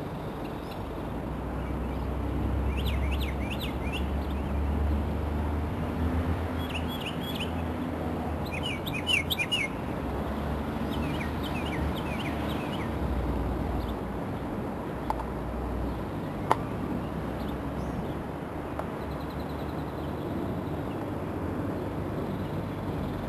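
Small birds chirping in several short bursts of quick, high repeated notes, over a steady low rumble that fades in the last few seconds.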